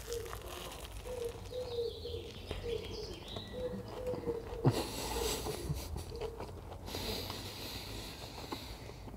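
A person chewing a big mouthful of burger close to the microphone, with a sharp click a little under five seconds in and two spells of soft crunching in the second half. A faint repeated cooing tone runs under the first half.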